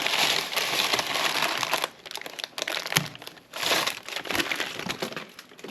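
Packaging being crinkled and rustled as a newly bought part is unwrapped, with a sharp click about three seconds in.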